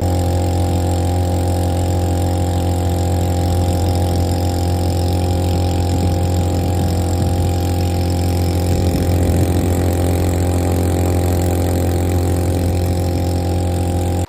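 Small two-stroke outboard motor running at a steady, unchanging speed.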